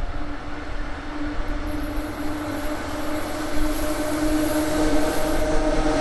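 Freight train running past, growing louder, with a high wheel squeal from about two seconds in until shortly before the end.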